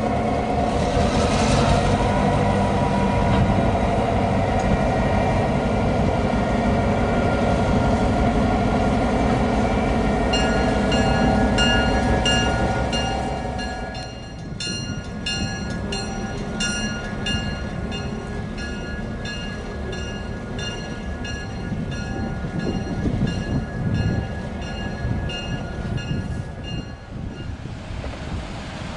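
A diesel locomotive runs close by, loud for the first half and then fading. A bell rings about twice a second from about a third of the way in until shortly before the end.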